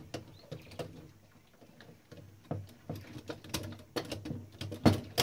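Irregular sharp clicks and knocks of metal parts of a Klein Adler 2 portable typewriter being handled and fitted during repair, coming quicker and louder in the second half, the loudest near the end.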